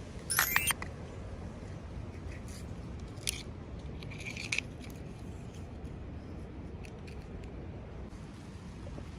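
Packaging being cut and handled: a quick run of sharp snips about half a second in, then a single click and a short rustle around four seconds in, over a steady low hum.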